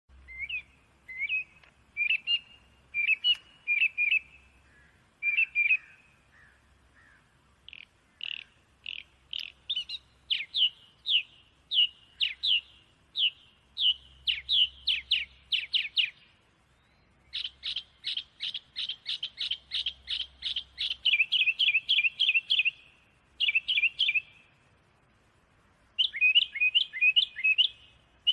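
Small songbird chirping in phrases of quick, high, downward-sliding notes, including a fast, evenly repeated trill, with short pauses between phrases.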